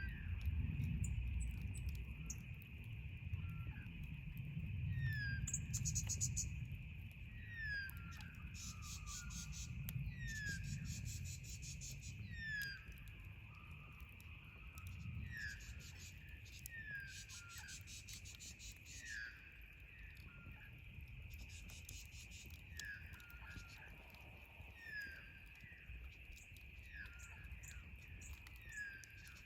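Outdoor night-time-style nature ambience: a steady high insect drone, with a bird giving short falling chirps every second or two and bursts of rapid high insect trilling. A low rumble underneath fades away over the first half.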